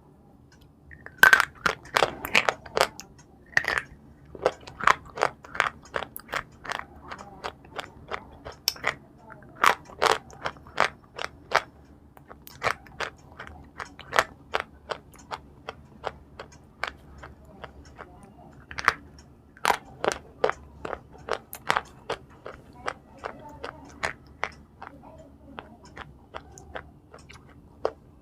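Close-miked chewing of crunchy food: a steady run of sharp, crisp crunches, about two to three a second, loudest in the first few seconds.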